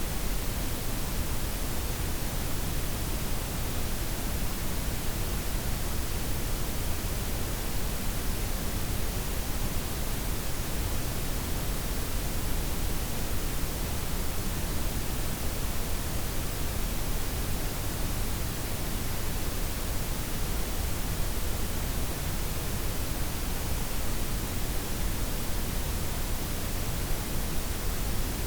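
Steady synthetic noise: white, pink and brown noise blended into a constant hiss with a heavy low rumble. It runs without change.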